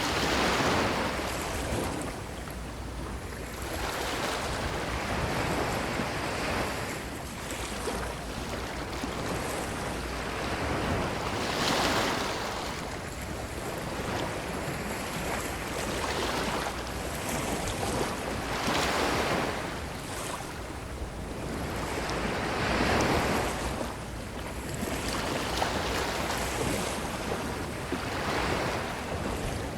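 Ocean waves breaking and washing up a beach, swelling and fading every few seconds.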